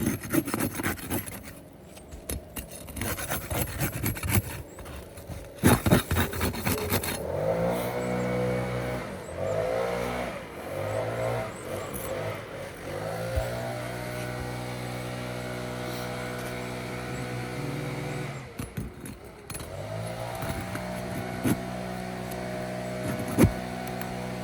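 Scraping and sharp knocks from prying up asphalt roof shingles to break their tar strips. From about seven seconds in, a nearby engine runs, its pitch rising and falling and then holding steady, cutting out briefly before starting again.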